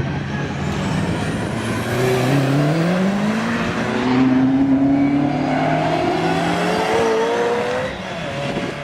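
A car accelerating hard, its engine note climbing steadily in pitch for several seconds and getting louder, then easing off near the end.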